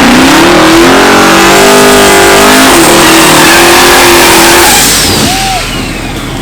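Drag-racing engine at full throttle under hard acceleration, the pitch climbing, dropping once at a gear change a bit under three seconds in, then climbing again before the sound fades away down the track.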